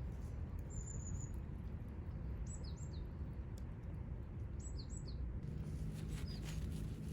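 Wild birds calling: a short high whistle about a second in, then two pairs of quick falling chirps, with a few faint clicks near the end, over a steady low outdoor rumble.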